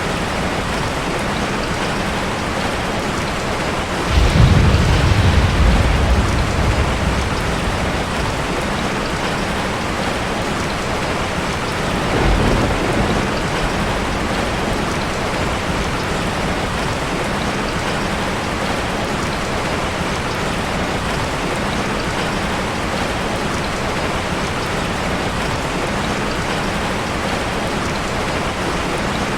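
Heavy rain falling steadily. About four seconds in, a sudden low rumble of thunder swells and rolls away over a few seconds, and a softer rumble follows about twelve seconds in.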